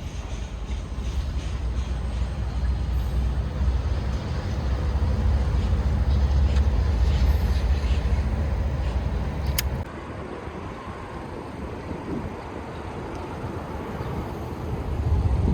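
Freight train rolling past with a steady low rumble that swells, then cuts off abruptly about ten seconds in, leaving quieter outdoor background noise.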